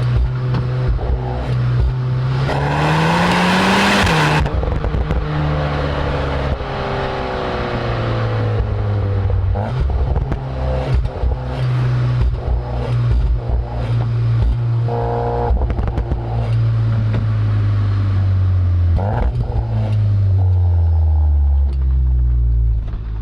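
Golf R Mk7.5's turbocharged 2.0-litre four-cylinder, tuned to 333 hp, heard through its Akrapovic exhaust from right at the tailpipes. A hard full-throttle pull rises in pitch a few seconds in and cuts off abruptly at the shift. It then runs on at varying throttle, with many short pops and crackles, and the pitch drops low near the end as the car slows.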